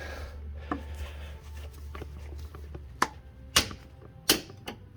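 A few sharp knocks and clicks of hand tools being fitted against the kicker bracket while the gas shock is being compressed. The two loudest come about three and a half and four and a quarter seconds in, over a steady low hum.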